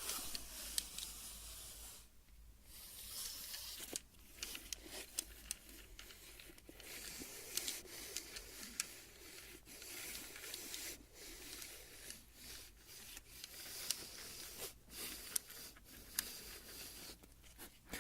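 Tape measure handled up close for ASMR: a continuous scratchy sliding and rubbing with many scattered small clicks.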